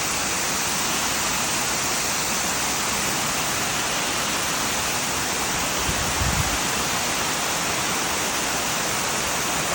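Waterfall rushing steadily, an even wash of falling water, with one brief low bump a little past halfway.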